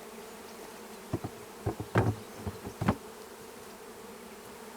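Honeybees from a newly installed hive buzzing steadily, with a run of sharp wooden knocks between about one and three seconds in as the outer hive cover is set down and settled on the box. The loudest two knocks come about a second apart.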